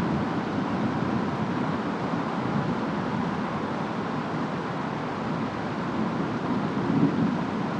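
Steady rain and wind of a storm, an even low rush that swells slightly near the end.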